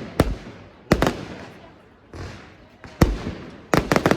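Aerial fireworks bursting: a sharp bang just after the start, another about a second in and one around three seconds, then a quick run of three near the end, with crackling and rumbling from the shells between the bangs.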